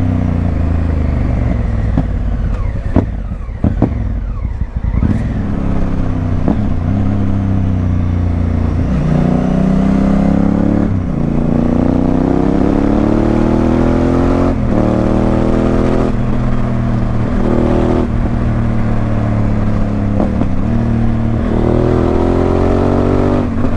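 Honda CRF1000L Africa Twin's parallel-twin engine through a Remus aftermarket exhaust, under way: the engine note climbs and then drops off sharply, again and again, as the bike accelerates and shifts up through the gears. The revs fall away with a few sharp cracks about four seconds in.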